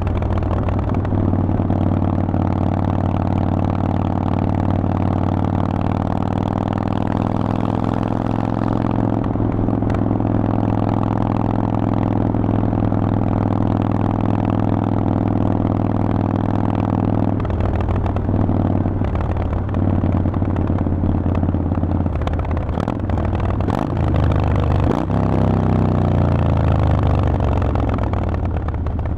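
Harley-Davidson Forty-Eight's V-twin running through a Vance & Hines exhaust under way, holding a steady pitch for over half the stretch. Partway through the pitch changes with quick revs, then falls away as the bike slows near the end.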